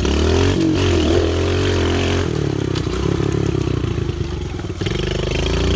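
Pit bike engine running under throttle as the bike is ridden, its pitch rising and falling, easing off about two seconds in and again near the end.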